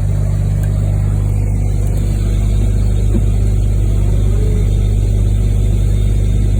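Medium-duty wrecker's engine running steadily with a deep drone, getting slightly louder about two seconds in.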